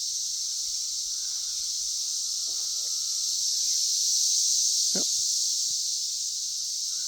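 Chorus of periodical (17-year) cicadas in the trees: a steady, high-pitched droning hiss from many insects at once, swelling slightly about four seconds in.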